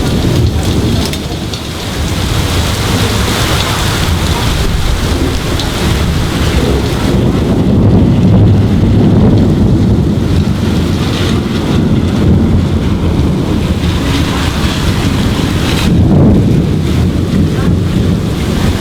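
Thunderstorm: steady heavy rain with low rolling thunder, the rumble swelling about halfway through and again near the end.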